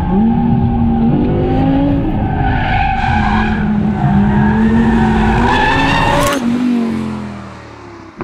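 Audi R8's V10 engine driven hard, revs rising and falling through quick gear changes, with tyres squealing. About six seconds in the revs drop away and the sound fades as the car slows.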